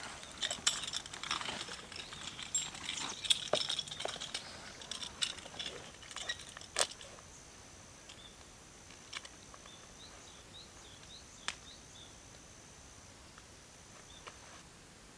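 Rustling and crunching handling noises with a few sharp clicks for about the first seven seconds, then quiet with a faint steady high whine that breaks off now and then and a few faint bird chirps.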